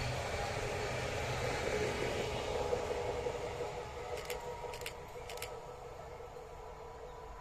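Stadler FLIRT 3 electric multiple unit rolling away along the track, its steady wheel-and-rail noise fading over the second half. A few short, high chirps come around the middle.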